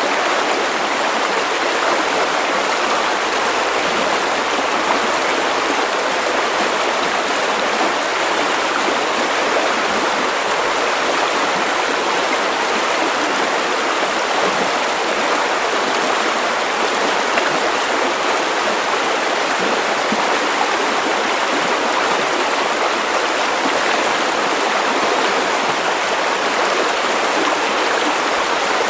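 River water running over stones, a steady rushing and babbling flow.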